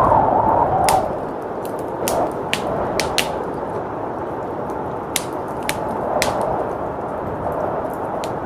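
Wood fire crackling, with sharp pops scattered irregularly over a steady rush of blizzard wind. The wind swells in a gust in the first second, then settles.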